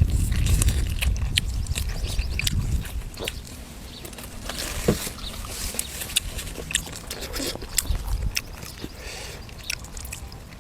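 A person eating close to the microphone: chewing and biting food with many short, sharp clicks and crunches. A low rumble sits under the first three seconds and then fades.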